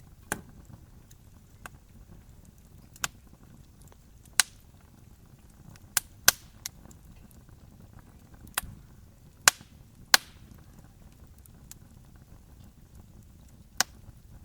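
Wood campfire crackling: sharp, irregular pops and snaps at uneven intervals over a low, steady hiss of burning.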